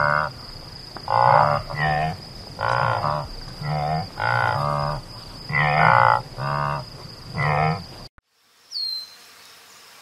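Scimitar oryx calling: a run of about ten short calls, each about half a second long, coming roughly once every 0.7 seconds over a steady high tone. The calls stop about eight seconds in, and a brief falling tone follows.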